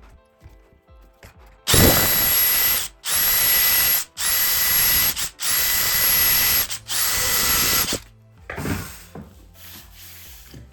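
A power tool's motor is run in five short bursts of about a second each, separated by brief pauses. Each burst carries a steady high-pitched whine.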